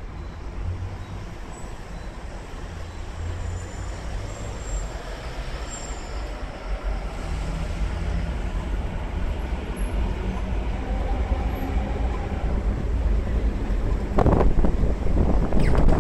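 An electric commuter train rolls in on the elevated viaduct overhead. Its rumble grows steadily louder over the street traffic and is loudest in the last two seconds as it comes into view.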